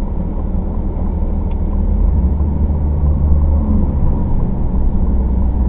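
Steady low rumble of a car driving along: road and engine noise, swelling a little in the middle.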